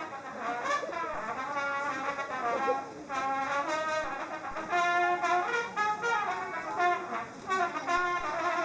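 Brass instruments, trumpet to the fore, playing a melody in short phrases of changing notes.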